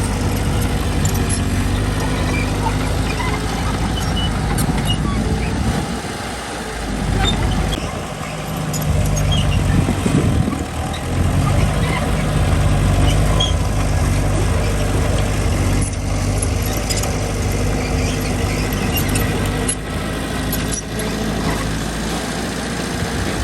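Diesel engine of heavy earthmoving machinery running steadily under load, easing off briefly twice, with scattered small clanks and squeaks of metal.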